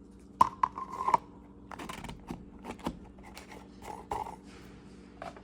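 A new oil filter and its box being handled: a quick run of clicks, scrapes and rustles, with a short squeak about half a second in.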